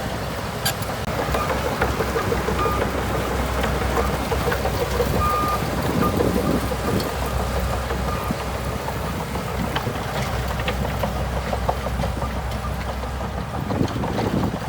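Shantui DH17C2 bulldozer's diesel engine running steadily, with scattered clanks and two short high beeps about three and five seconds in.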